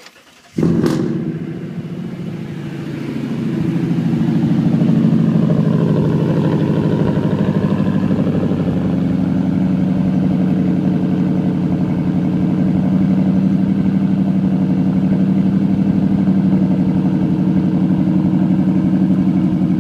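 2008 Toyota Tundra's 5.7-litre i-Force V8 starting about half a second in, then idling steadily through straight-pipe exhaust with the catalytic converters left in, getting louder over the first few seconds before it settles.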